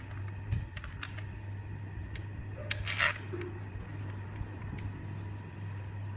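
A few light clicks and taps of small metal or plastic parts being handled, the loudest a short clatter about three seconds in, over a steady low hum.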